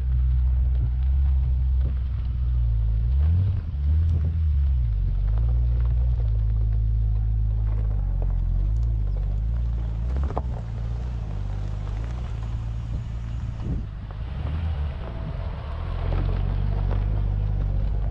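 Nissan Skyline R34 25GT Turbo's RB25DET turbocharged straight-six idling steadily with a low exhaust note. The pitch wavers briefly a few seconds in.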